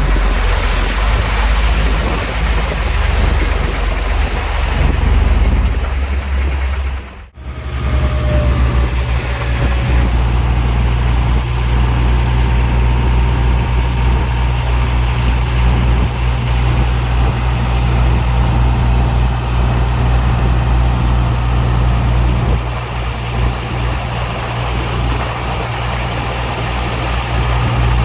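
Heavy diesel engine of earthmoving equipment running steadily, with a brief break about seven seconds in, after which a steady low engine drone carries on.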